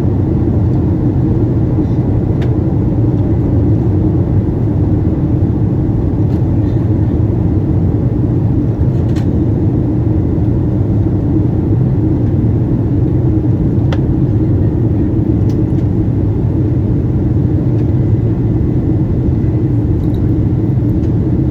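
Steady in-flight cabin noise inside a Boeing 777-200 on descent: a constant low rumble of engines and airflow, with a few faint ticks.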